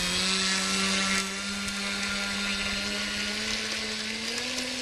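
Electric motor and propeller of an RC model airplane, a steady whine that steps up slightly in pitch near the end as the throttle is eased up.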